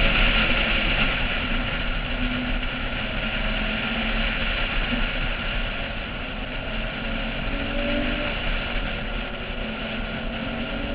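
Porsche 996 at track speed, heard from a GoPro on its roof: a steady rush of wind over the camera, with the flat-six engine note rising and falling beneath it.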